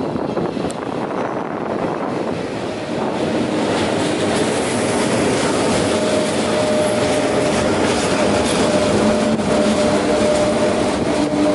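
RegionAlps electric regional train running into the platform and slowing, its wheels rumbling on the rails as the cars pass close by. The sound grows louder about three seconds in, when steady whining tones join the rumble.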